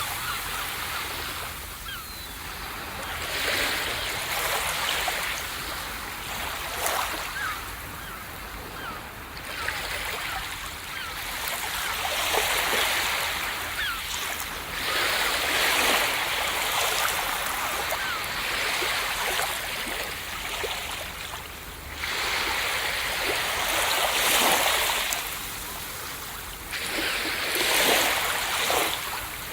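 Ocean waves breaking on a beach, a continuous surf hiss that swells and recedes every few seconds as each wave comes in and washes back.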